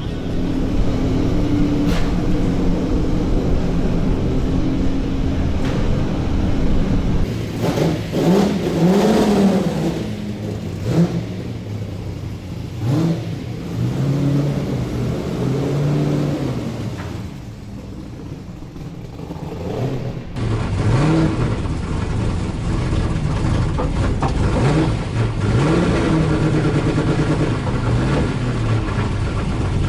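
Holden Torana A9X race car's V8 engine at racing speed, revs climbing and dropping back again and again through gear changes and braking.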